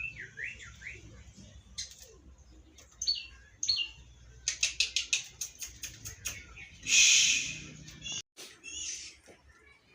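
Small songbirds chirping and calling in short high notes, with a quick run of sharp chirps midway and a short loud rustling burst about seven seconds in.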